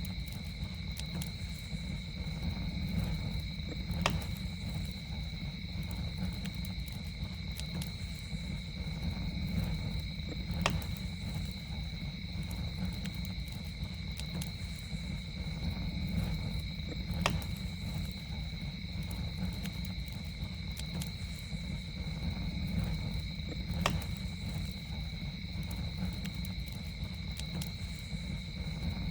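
Campfire burning with a steady low rumble and a sharp crackling pop every six and a half seconds or so, over a steady high two-pitched insect drone like crickets.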